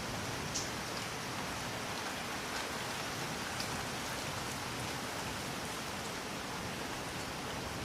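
Steady rain falling, a constant even hiss with a few separate drops striking a little louder, one about half a second in and another a few seconds later.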